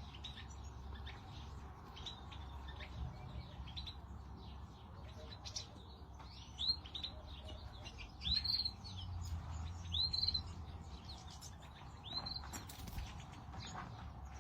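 European goldfinches chirping and twittering: a stream of quick short notes, with a few louder arching calls in the second half, over a faint low steady hum.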